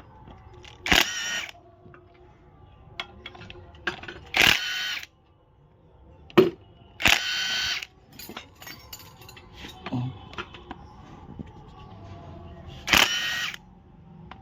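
Power wrench spinning out engine timing-cover bolts in four short whirring bursts, with small clicks of tools and metal parts between them.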